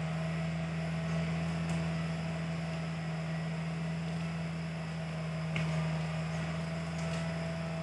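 Tractor engine running steadily, a constant low hum that stays unchanged throughout.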